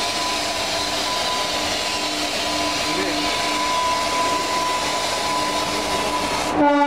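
Steady hiss with faint humming tones from a fast electric train approaching along the rails. Just before the end it cuts abruptly to a louder chord of sustained tones.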